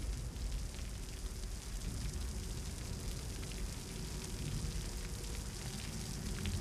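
Heavy rain pouring onto wet pavement: a steady, even hiss with a low rumble underneath.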